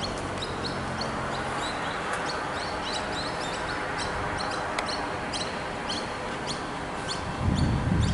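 Small birds chirping, several quick high chirps a second, over steady background traffic noise; a low rumble comes in near the end.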